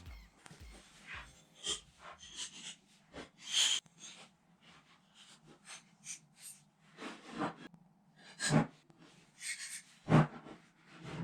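A string of irregular short knocks and clicks from something being handled, the loudest about two-thirds of the way through, with a brief hiss early on.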